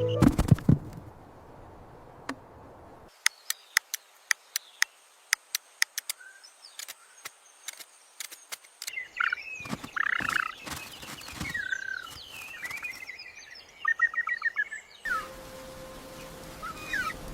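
Small birds chirping in short calls, with a quick trill, after a run of sharp, irregular clicks or taps; a faint steady tone follows near the end.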